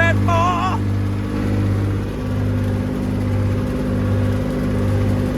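Massey Ferguson 135 tractor's diesel engine running steadily under load, driving a feed wagon through its PTO, with a low throb that pulses about once a second.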